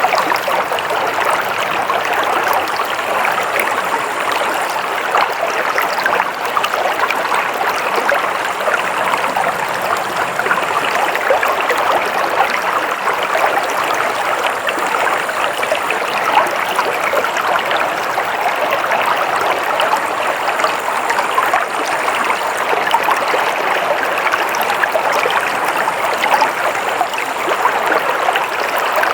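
A stream flowing steadily, its water splashing and trickling in an even, unbroken rush.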